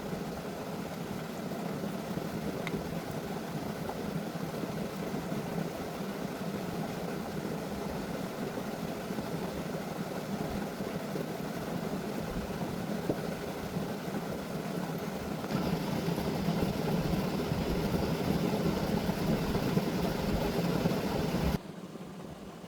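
Tractor engine running steadily at idle. It grows louder about two-thirds of the way through, then cuts off suddenly near the end.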